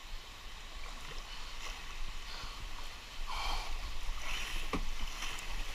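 Fast floodwater rushing around a kayak, with the splash and knock of paddle strokes; the water noise grows louder about halfway through.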